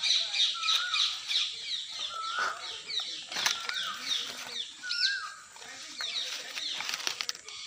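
Birds chirping in quick falling notes, many per second, with a shorter wavering call recurring every second or two.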